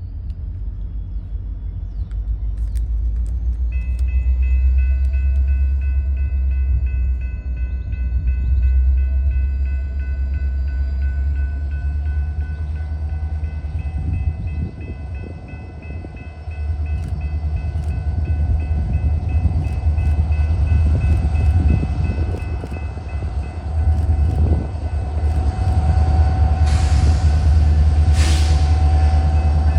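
A train rolling past with a loud, steady low rumble of its locomotives, a set of steady high-pitched tones held for most of the passage, and wheels knocking over the rail joints. Two short hissing bursts come near the end.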